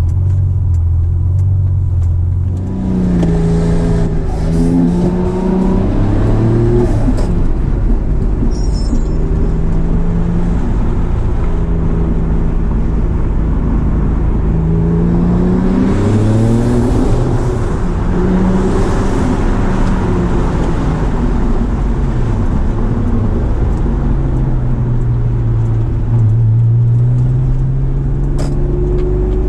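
Turbocharged V6 of a 1999 Acura NSX heard from inside the cabin on the move, its note rising and falling back several times as the car accelerates and the revs change, over steady road noise.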